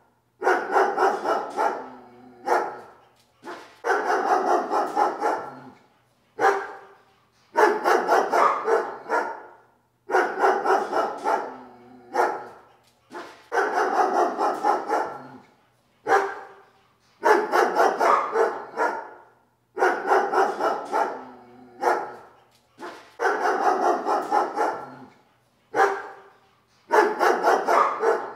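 A dog barking in repeated volleys of quick barks, one volley every two to three seconds, with short pauses between them.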